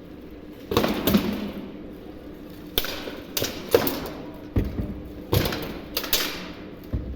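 Blows of weapons striking armour in a medieval armoured combat bout: about ten sharp impacts in irregular clusters, each ringing briefly.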